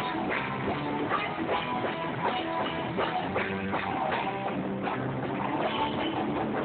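Rock band playing live, with drum kit hits and guitar, through a phone recording with a dull, cut-off top end.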